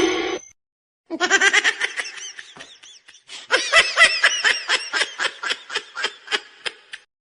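Laughter: a long run of rapid, pitched bursts of laughing that starts about a second in and trails off into shorter, fainter pulses near the end.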